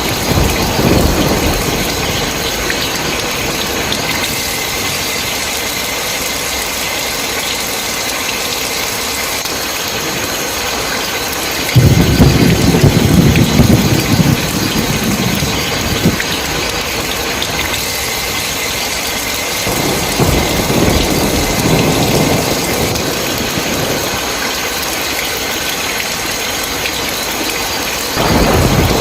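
Steady heavy rain with thunder: rumbles roll in several times, the loudest starting suddenly about twelve seconds in and lasting a few seconds, with further rumbles around twenty seconds and near the end.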